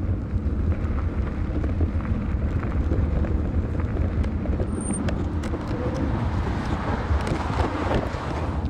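Steady outdoor rumble of passing road traffic and wind on the microphone, heard from a moving bike, with a few faint clicks.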